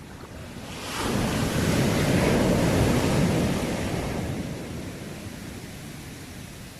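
Sea wave breaking on the shore: the surf rushes in about a second in, swells for a couple of seconds, then washes out and fades, leaving a low steady wash.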